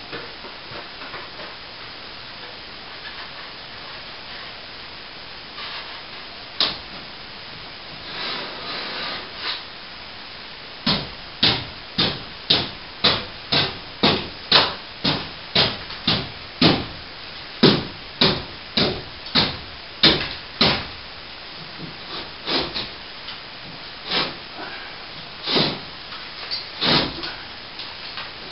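A run of about twenty sharp knocks at roughly two a second, starting about eleven seconds in, with a few scattered knocks before and after: a hand tool striking during plaster ceiling work.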